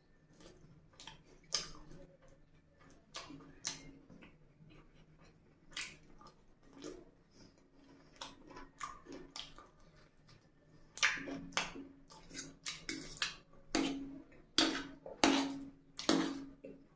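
Close-up eating sounds: wet chewing and lip smacking on saucy fried chicken. A string of sharp smacks comes more often and louder over the last six seconds.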